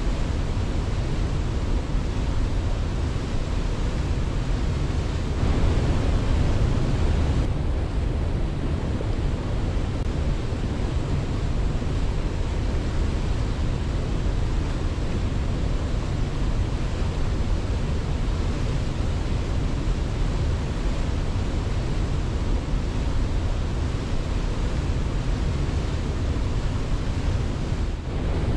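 Steady, even rushing of water, as from a waterfall, swelling a little about five to seven seconds in.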